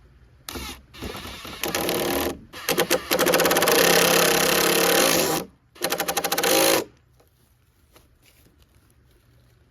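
Impact driver driving screws into wood in several bursts, the longest lasting about two seconds, with rapid hammering strikes near the end.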